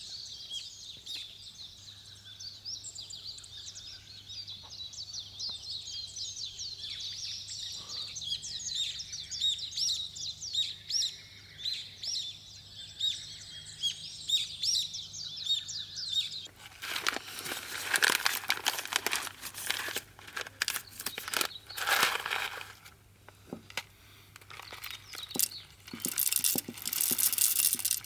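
A dense chorus of high chirping calls from wildlife. About two-thirds of the way in, it gives way abruptly to loud, irregular rustling and crinkling handling noises.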